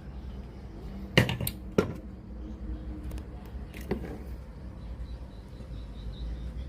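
Three sharp clicks or knocks of hard objects, the first the loudest, over a low steady hum.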